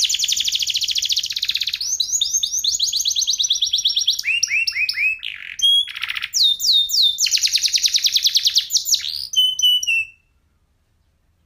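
Domestic canary (F1SF kenari) singing fast rolling trills of rapidly repeated, high downward-sweeping notes, switching from one phrase to the next. The song stops abruptly about ten seconds in.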